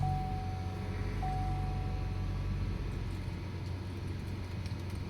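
Chevrolet Colorado pickup engine idling just after starting, heard from the cab. A steady electronic warning chime tone sounds twice during the first two seconds.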